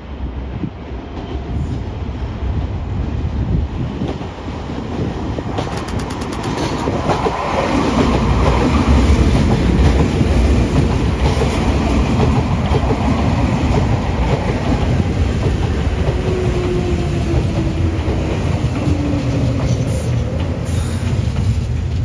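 A Semboku Rapid Railway 3000 series electric train running through the station. It grows louder over the first several seconds, and its wheels clack over the rail joints.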